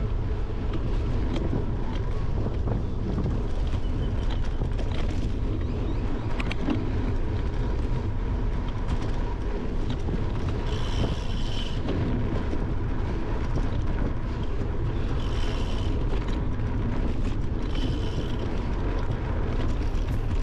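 Wind buffeting the microphone of a handlebar-mounted camera, over the rumble and rattle of a bicycle riding a gravel and dirt trail. A few short high-pitched chirps come through about halfway and near the end.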